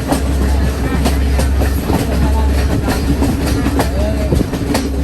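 Train running along the track: a steady low rumble with repeated clicks of the wheels over the rails.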